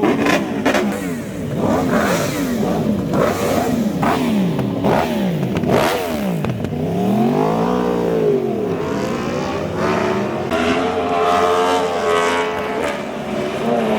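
Vehicle engines revving, the throttle blipped up and down about once a second, then a longer rev that rises and falls in the middle.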